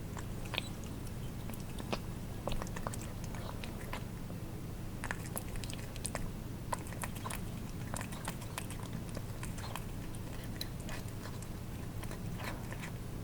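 Cats eating wet food: irregular wet smacking and clicking of tongues and jaws as they lap and chew, over a steady low hum.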